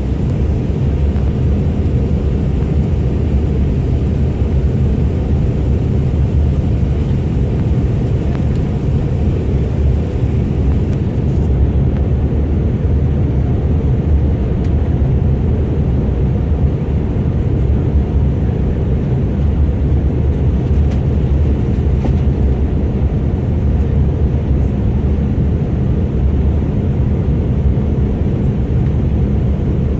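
Steady low roar of a Delta CRJ900 regional jet in flight, heard inside the passenger cabin: engine and airflow noise with no break or change.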